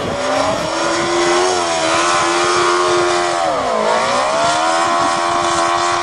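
Yamaha 650 motorcycle engine in a dune buggy running at high revs under hard throttle through its custom stainless steel exhaust, held near the red line. The pitch dips briefly about four seconds in, then climbs back and holds.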